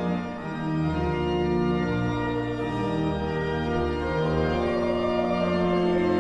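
Church organ playing held chords that change about every second.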